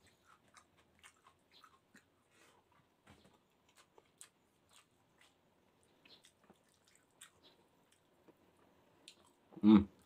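A person chewing and eating by hand: faint, scattered wet mouth clicks and small ticks. A brief voiced sound near the end.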